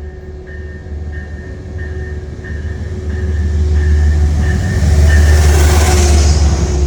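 Metro-North GE P32AC-DM diesel locomotive arriving at a station, its low rumble growing louder as it draws near and passes, with a rushing hiss at its loudest. Over the rumble a bell rings steadily, about one and a half strikes a second, until it is drowned out.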